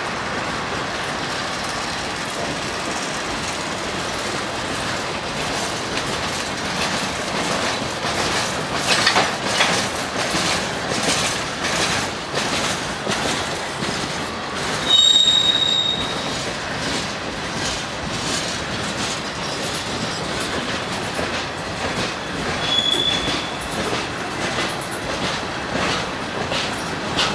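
Freight train of boxcars rolling past: steady wheel-on-rail noise with a run of clicks as the wheels cross rail joints. A brief high-pitched wheel squeal rings out about halfway through, with a shorter one near the end.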